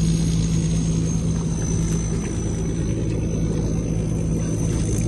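A small engine running steadily, a constant low hum with a thin high whine over it.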